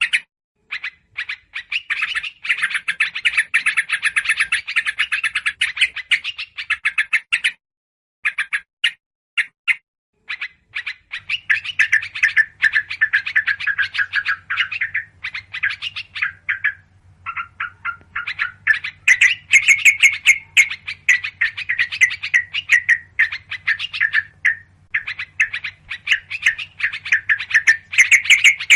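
Busy, scolding chatter of many yellow-vented bulbuls mixed with calls of other small birds, in a looped bird-lure recording. The calls pause briefly twice, and a low steady hum joins about eleven seconds in.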